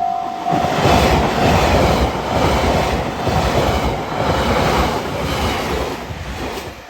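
A level-crossing warning bell dings about twice a second at first. It is quickly drowned out by a passing train: a loud rush of wheels on rail with a regular clatter as the wheelsets cross the rail joints. The train noise dies away near the end.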